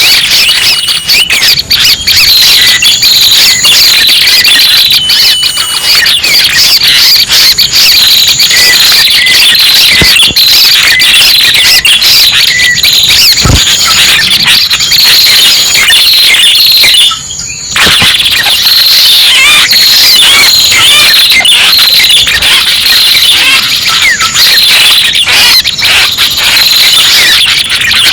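Loud, dense chorus of high-pitched squeaky bird calls and chatter, a bird-lure recording of prenjak pala merah calls used for trapping. The calls break off briefly about seventeen seconds in.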